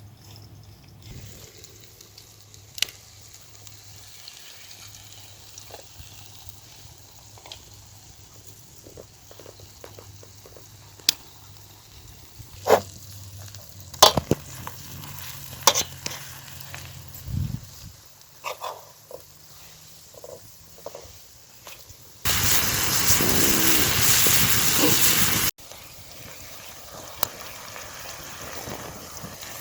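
Scattered clicks and knocks of utensils, then about three seconds of loud frying sizzle that starts and stops abruptly, a little past two-thirds of the way through.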